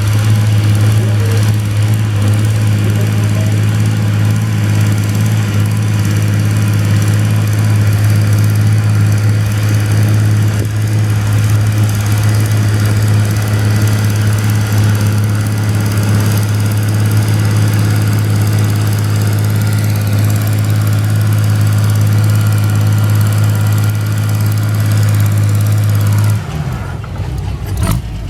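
Antique farm tractor engine running loud and steady at one pitch. Near the end the pitch falls away and the engine note changes.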